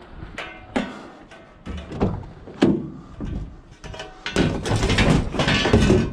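Scrap items being handled: a series of sharp knocks and clanks with short ringing, then a couple of seconds of scraping and rattling about two-thirds of the way in.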